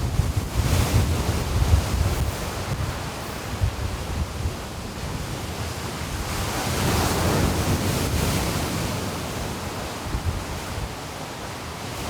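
Sea waves washing onto the shore, one wave swelling up and fading away about halfway through, with strong wind buffeting the microphone in the first few seconds.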